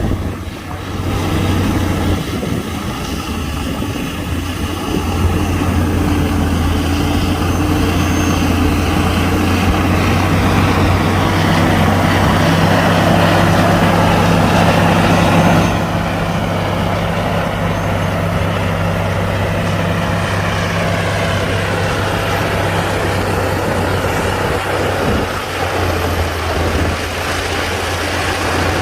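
Komatsu D60-P bulldozer's diesel engine running under load, building steadily louder to a peak about halfway through, then dropping suddenly to a steady lower running.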